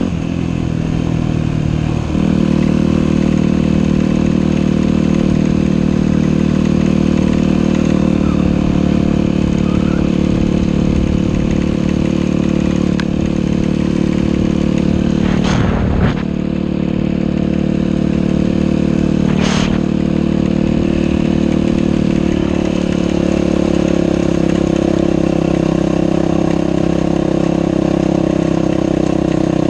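Dirt bike engine running steadily while riding a trail, its engine note stepping up or down a few times. Two brief noises cut across it about halfway through.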